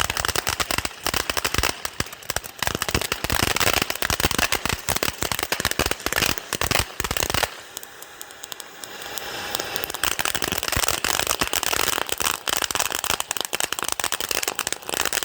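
Firecrackers going off in a rapid, dense string of sharp cracks and pops, easing off about halfway through before the crackling starts up again.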